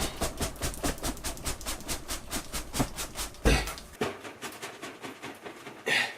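A rapid series of clicks and crackles, several a second, with a louder knock about three and a half seconds in.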